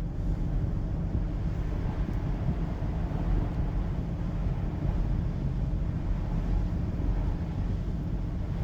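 Steady low rumble of a taxi driving, engine and road noise heard from inside the cabin.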